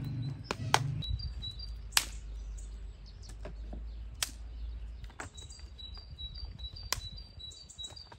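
A small bird chirping in short, high, quickly repeated notes, in two runs. Several sharp knocks or clicks fall in between, and a low steady hum stops about a second in.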